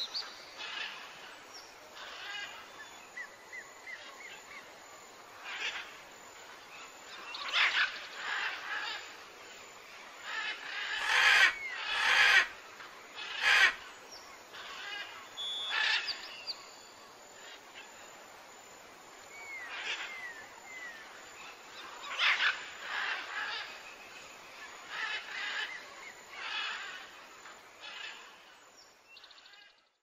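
Birds calling again and again over a faint steady background hiss, with a few short whistled notes and several louder, sharp calls about eleven to thirteen seconds in. The sound fades out at the end.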